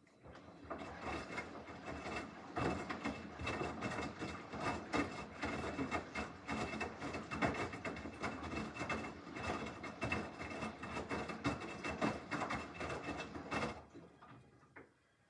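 Samsung washing machine's drum turning in a wash tumble, clothes and drum clattering and clicking. The run starts suddenly and stops about 14 seconds in.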